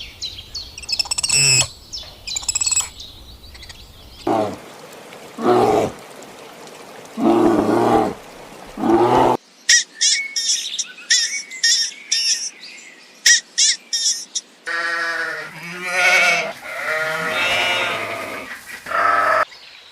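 A run of different animal calls edited together: high chirping, then several lower pitched calls, then a stretch of dense chirping after a sudden cut about nine seconds in, then more lower pitched calls.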